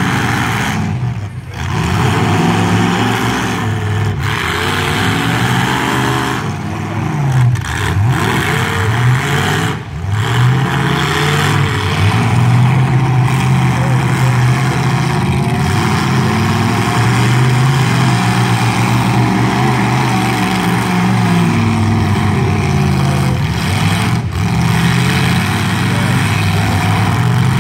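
Demolition derby trucks' engines revving hard, pitch climbing and falling again and again as they accelerate and back off.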